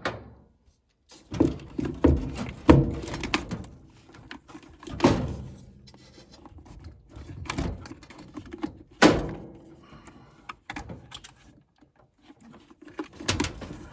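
Irregular knocks, clunks and rattles of a gas furnace's draft inducer and metal parts being handled and pulled out by hand, with a loud clunk about nine seconds in.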